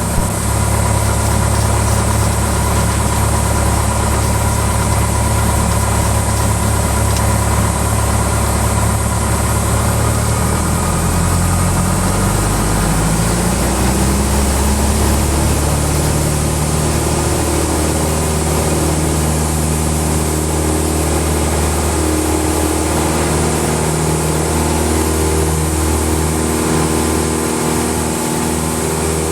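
Cessna 172's four-cylinder Lycoming engine and propeller running at takeoff power during the takeoff roll and climb-out. A loud, steady drone whose pitch shifts a little about ten to fifteen seconds in.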